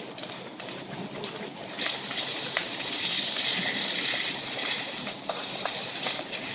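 Steady hissing rush of water from fire hoses on burning logs, with scattered sharp crackles and pops; the hiss grows louder about two seconds in.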